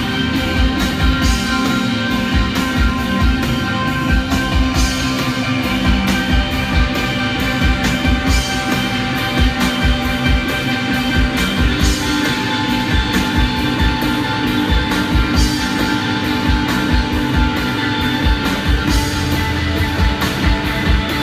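Live rock band playing: sustained electric guitar chords over a steady drum beat.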